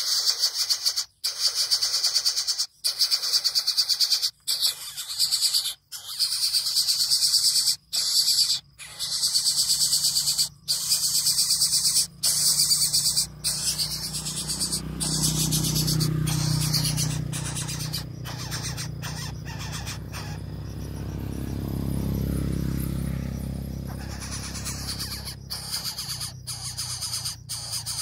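Coucal chick begging for food: harsh, hissing buzzes in a rapid run, broken every second or so by brief pauses. About halfway through the hissing fades and a low rumble takes over until near the end, when the buzzing returns.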